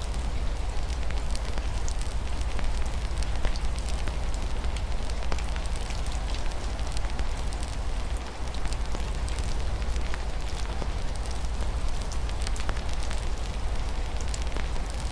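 Wood fire crackling with scattered sharp pops over a steady low rumble, with soft rain on a window underneath.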